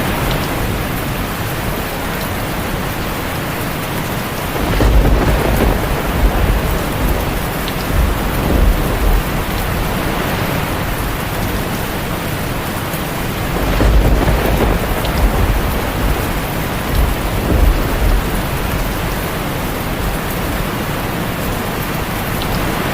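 Heavy rain drumming steadily on a tin roof, with two rolls of thunder rumbling in, about five seconds in and again about fourteen seconds in, each dying away over a few seconds.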